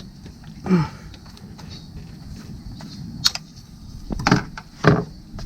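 Handling noises from a stuck rubber vacuum hose being worked off its fitting with a pick tool: a sharp click about three seconds in, then two knocks close together near the end.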